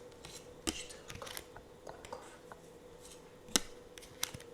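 Tarot cards being handled close to the microphone: scattered light taps and clicks of card stock, the sharpest about three and a half seconds in, over a faint steady hum.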